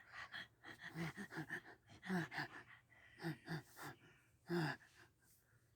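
A person's breathy vocal sounds in a quick string of short bursts, fading out near the end.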